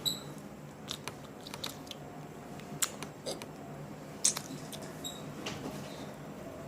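Close-up eating of greasy hot-and-spicy chicken: wet chewing with scattered sharp mouth clicks and crunches, the loudest two a little under three seconds and a little over four seconds in, over a steady low hum.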